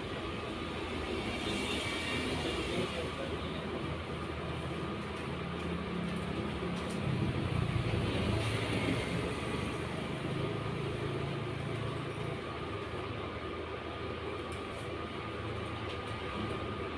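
Steady background rumble with a constant faint hum, swelling with a low droning tone for several seconds in the middle.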